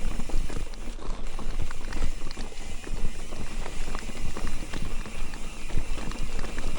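Mountain bike clattering over a rocky trail: tyres crunching and the bike rattling with many irregular knocks, over a steady low rumble of wind on the microphone.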